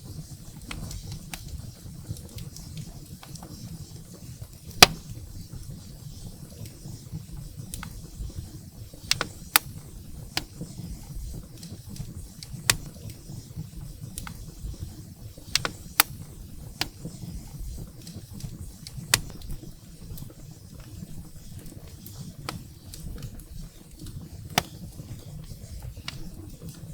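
Wood fire burning in a fireplace: a steady low rush of flame with sharp crackles and pops from the burning firewood at irregular intervals, the loudest pop about five seconds in.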